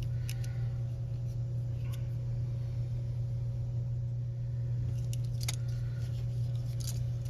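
A steady low hum, with a few light clicks and taps from small parts being handled: a model locomotive's circuit board and wiring being worked on by hand.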